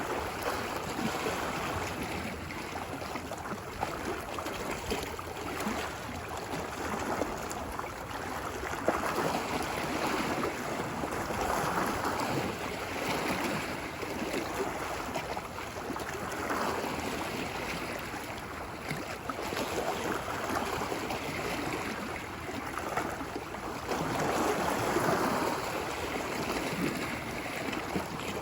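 Ocean waves washing onto a beach, a steady surf wash that swells and eases every few seconds.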